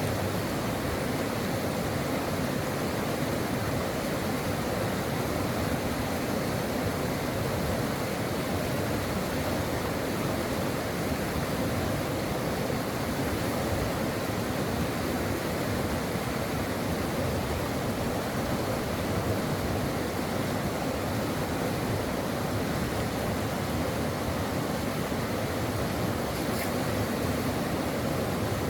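Stream water flowing in a steady, unbroken rush, with a faint thin high tone running above it.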